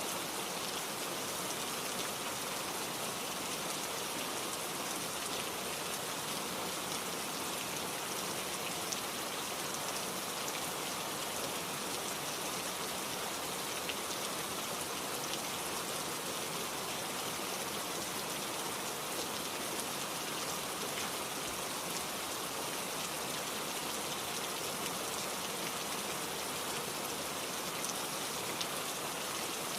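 Steady rain falling, an even hiss of many drops with faint scattered ticks of individual drops on a surface.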